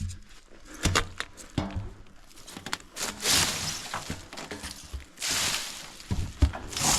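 Boots knocking and clunking on a bulldozer's steel while someone climbs up onto it, with stretches of rustling about three seconds in and again near the end.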